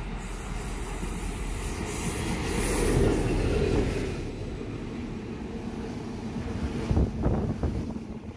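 Mariyung double-deck train passing through at speed: a rising rush of wheel and running noise that peaks about three seconds in, then a steady rumble, with a few sharp wheel clacks near the end.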